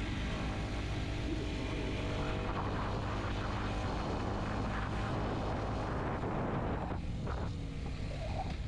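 Kawasaki Z125's single-cylinder four-stroke engine running steadily while riding, with wind rushing over the microphone. About seven seconds in the engine note and wind ease off.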